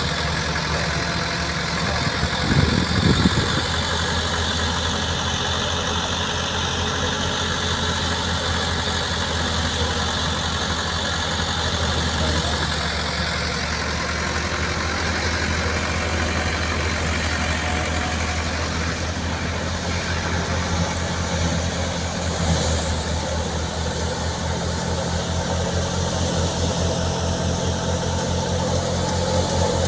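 Tractor engine running steadily at a constant speed, driving a wheat thresher, under a steady broad mechanical noise. A few louder knocks come about three seconds in.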